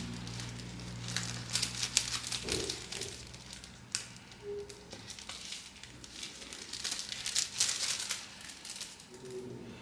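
Small repair tools and phone parts being handled on a workbench: irregular scratchy clicks, taps and crinkling. A low steady hum stops about two and a half seconds in.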